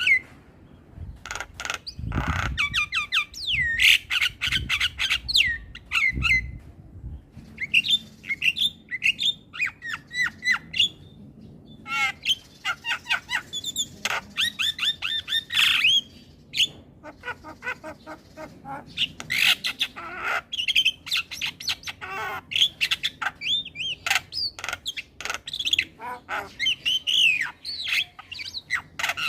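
Javan myna singing: a continuous, busy run of harsh squawks, whistled glides and rapid clicking chatter, with two dull low thumps in the first few seconds.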